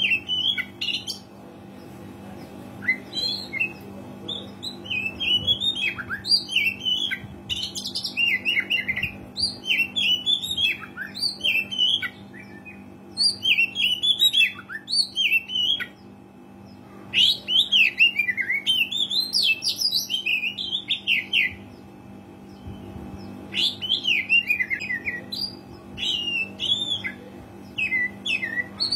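Oriental magpie-robin (kacer) singing a rapid, varied song of whistled and chattering phrases, in bursts broken by short pauses.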